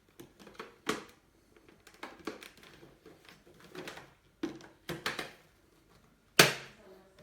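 A series of irregular clicks and knocks from hard objects being handled, ending in a sharp knock near the end that rings on briefly.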